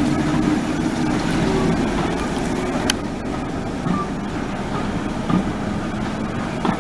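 Steady running noise of a moving train, with one sharp click about three seconds in.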